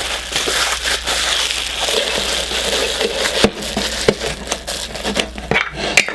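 Plastic and paper packaging being crumpled and crushed by hand, a dense crinkling for most of the time, then a few sharp clicks and knocks near the end.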